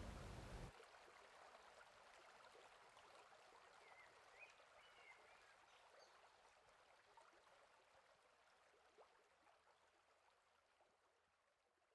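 Faint forest stream flowing, a soft steady water hiss, with a few faint high chirps about four to five seconds in. It drops a little under a second in, then fades out gradually to silence.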